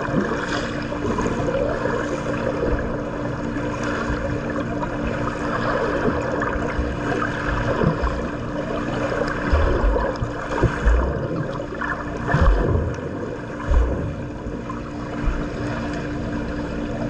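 Swimming-pool water splashing and churning, as from a swimmer's strokes, with a few low thumps and a steady low hum underneath.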